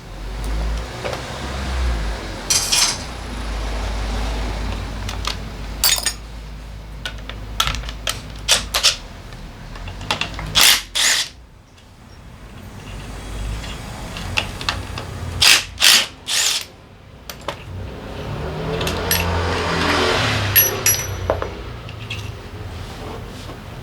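Hand and power tool work on a Honda PCX 125 engine being taken apart. There is a low hum through the first half, repeated sharp metallic clicks and knocks of tools and parts, and a whirring stretch that swells and fades in the second half.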